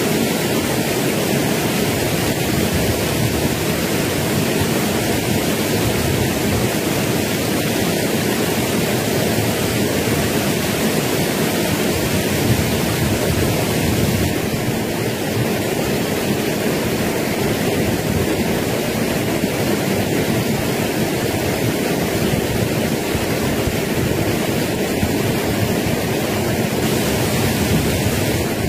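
Steady rush of fast-flowing stream water near a waterfall: a loud, even hiss with no break.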